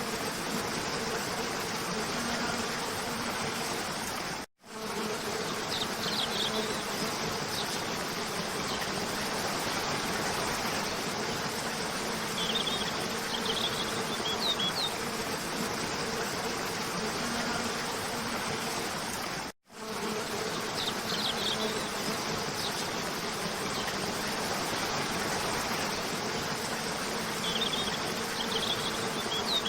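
Cascade waterfall rushing steadily, with clusters of short high bird chirps every several seconds. The whole sound cuts out for an instant twice, about four and a half seconds in and again near twenty seconds.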